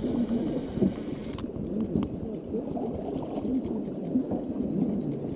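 River water splashing and gurgling against a kayak on moving water, an uneven rushing noise with a brief brighter hiss in the first second or so.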